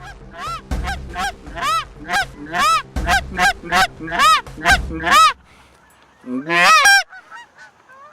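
Canada goose honks in a quick, regular series, about three a second, for some five seconds. After a short pause comes a longer, louder stuttering honk.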